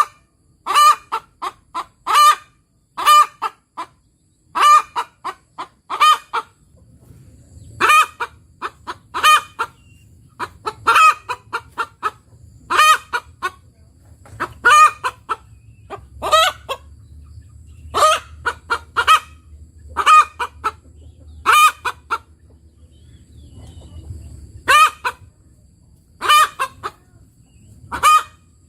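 A bird calling in short calls, repeated in quick runs of two to four all through, with a faint low rumble underneath from about seven seconds in until near the end.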